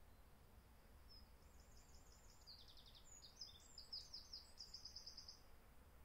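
A songbird sings one faint phrase of high notes lasting about four seconds: quick runs of repeated notes, then varied notes, ending in a fast trill.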